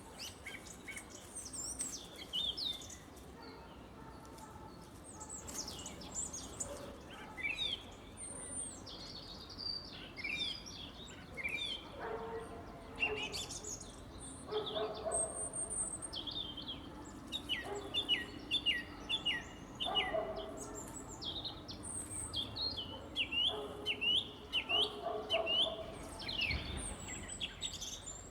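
A spring morning chorus of several songbirds in a forest, singing and calling over one another with quick high chirps and trills. From about the middle on there are runs of short repeated falling notes.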